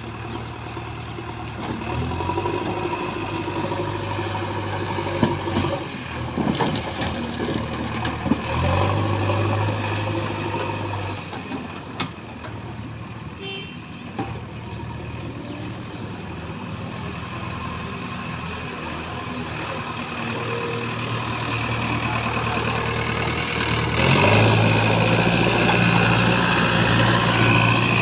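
JCB 3DX backhoe loader's diesel engine running, revving up and settling back in steps as it works, loudest over the last few seconds. A few sharp knocks sound along the way.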